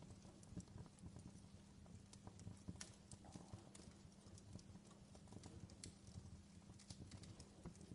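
Fireplace crackling: faint, irregular pops and snaps over a low steady hum.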